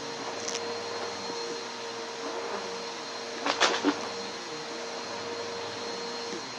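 Vacuum cleaner running steadily, a motor whine over a rushing airflow, with a short burst of louder crackling a little past halfway.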